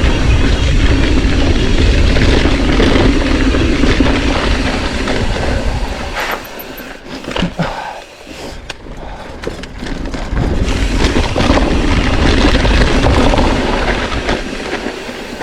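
Mountain bike riding on a dirt trail: knobby tyres rolling and the bike rattling over bumps, with a heavy rumble of wind on the microphone. It eases off for a few seconds in the middle, where several sharp knocks stand out, then picks up again.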